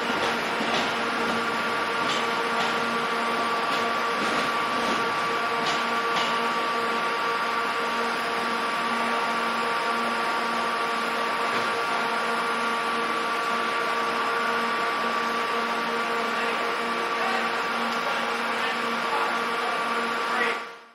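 Steady running noise inside a Class 221 Super Voyager diesel-electric train carriage: an even hum with several whining tones over a hiss, with a few light clicks in the first few seconds. It fades out at the very end.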